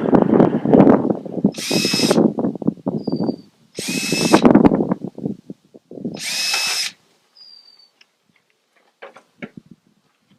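Power drill running in a string of short bursts, each a second or two long. It goes quiet about seven seconds in, leaving only a few faint knocks.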